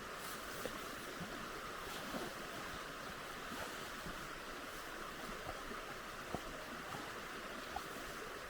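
River water flowing, a steady rushing with a few faint small ticks.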